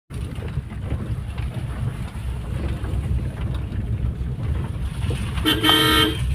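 Steady low rumble of a car driving on a wet street. A vehicle horn sounds once, for under a second, near the end.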